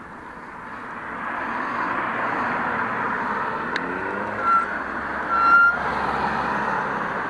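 Steady road traffic noise that builds up over the first couple of seconds, with two short high electronic beeps about a second apart near the middle, the second one longer.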